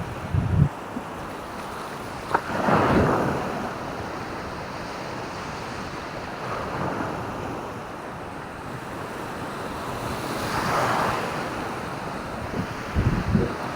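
Waves breaking and washing up the beach, swelling about three seconds in and again about eleven seconds in, with wind buffeting the microphone in low rumbles near the start and end.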